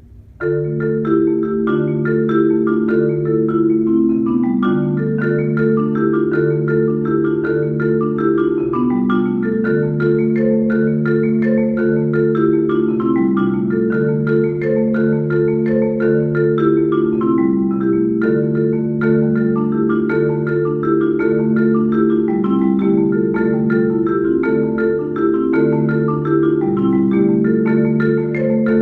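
Solo marimba played with mallets: after a brief pause it comes back in about half a second in with a continuous flow of rolled chords and moving notes over a steady low bass line.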